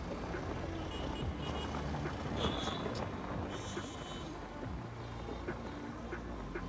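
Honda SP 160 motorcycle's single-cylinder engine running while riding, heard through a phone's built-in microphone, with several short high beeps over it.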